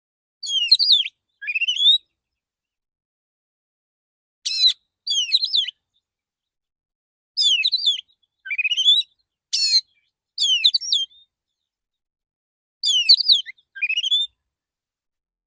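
Male oriental magpie-robin singing a relaxed calling song: about ten short whistled phrases of quick rising and falling notes, mostly in pairs, with gaps of one to two seconds between them.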